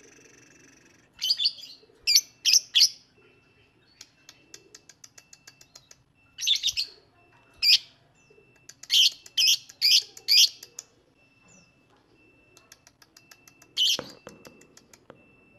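Lovebird calling: loud, sharp chirps that come in quick groups of two to four. Between the groups it makes a faint, fast ticking chatter.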